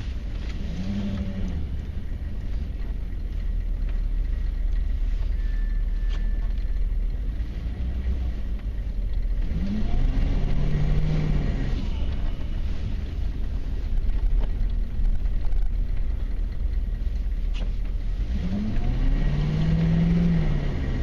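The 6.5-litre turbo-diesel V8 of a 1994 Chevy Silverado K1500 pickup, heard from inside the cab, running under a steady low rumble. It revs up and falls back three times: near the start, about ten seconds in and near the end, as the truck is driven sideways on snow.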